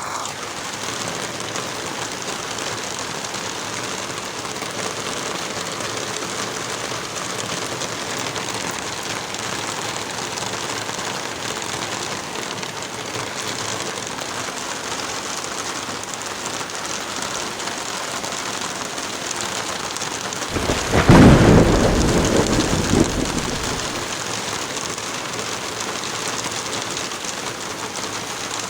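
Heavy rain falling steadily. About three quarters of the way through, a clap of thunder breaks in, the loudest sound here, and rumbles for a few seconds before fading back under the rain.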